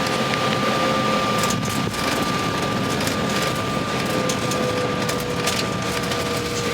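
Steady engine drone of a vehicle with a constant high whine over it.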